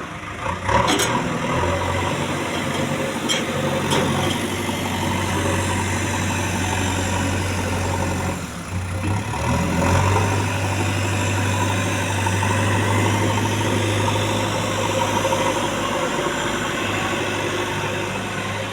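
Diesel engine of a JCB 3DX backhoe loader running steadily, easing off briefly about nine seconds in, with a few short knocks in the first four seconds.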